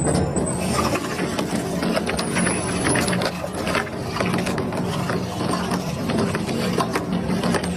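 Double-shaft shredder running under load, its cutters crushing and tearing material with a continuous, irregular run of sharp cracks and snaps over a steady motor hum.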